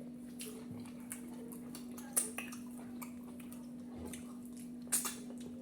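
A steady low hum with a few faint clicks, the clearest about two seconds in and again about five seconds in.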